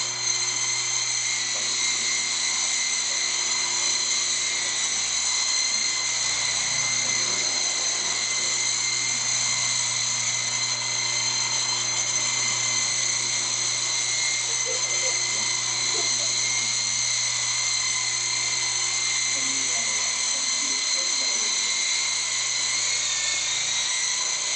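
Radio-controlled helicopter's motor and rotor running with a steady, high-pitched whine; the pitch dips briefly near the end.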